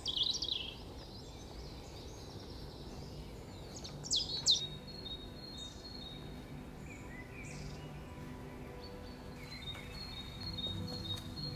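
Woodland birds calling: a quick falling call right at the start and a pair of sharp, loud calls about four seconds in, with thin high chirps repeating afterwards. A soft ambient music bed sits underneath and grows toward the end.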